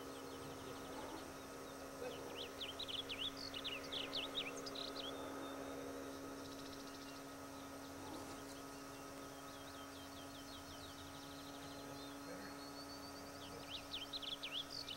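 Songbird chirping in quick repeated phrases, one burst a couple of seconds in and another near the end, over a faint steady hum.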